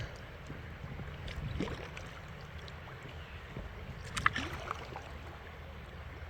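Kayak paddling on a shallow river: water splashing and running past the hull with paddle strokes, and one sharp knock about four seconds in.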